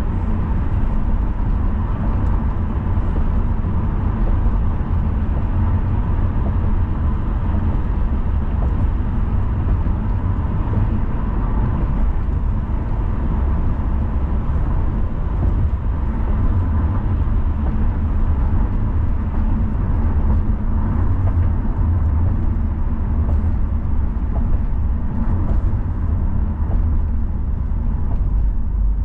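A car driving: a steady rumble of tyre and road noise with the engine underneath, even throughout with no sudden events.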